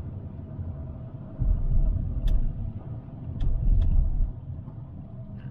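Low road and engine rumble heard inside a Toyota Sienna minivan's cabin while driving. It swells twice, with a few faint clicks.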